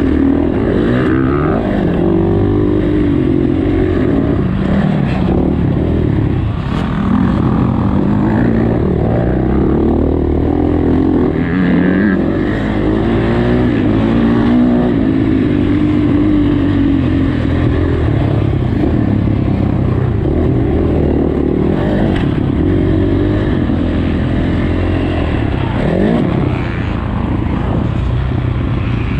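Dirt bike engine revving up and down again and again as it is ridden around a motocross track, the pitch rising and falling every second or two without a break.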